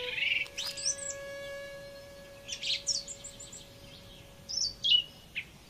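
Small birds chirping: short, quick high chirps in three clusters, over a faint held note of background music that fades near the end.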